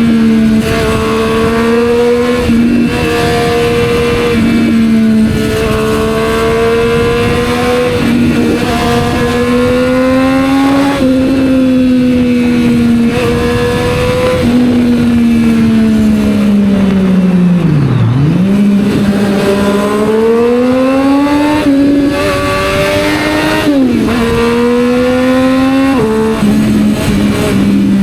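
Triumph Street Triple 765 R's three-cylinder engine running through a Yoshimura exhaust under way, its pitch climbing with the throttle and dropping sharply at each gear change. About two-thirds of the way through it slows to a low idle-like pitch, then pulls away and climbs through the gears again.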